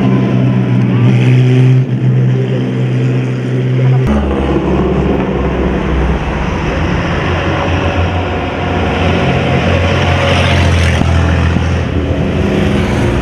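Engines of vintage racing cars running at low speed. The first holds a steady note; about four seconds in it cuts abruptly to a lower, wavering engine note.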